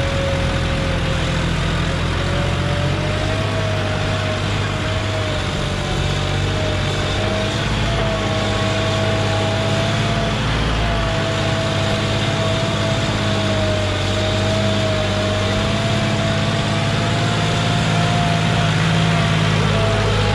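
John Deere 5065E tractor's diesel engine running steadily, with a higher whine that wavers slightly in pitch.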